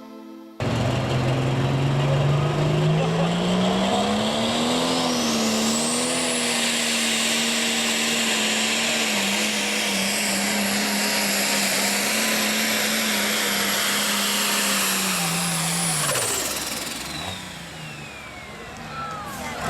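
Super Farm class pulling tractor's turbocharged diesel engine running at full throttle down the track, cutting in suddenly, its pitch climbing and then holding steady with a high turbo whine rising over it. Near the end the engine drops off and the whine falls away as the run ends.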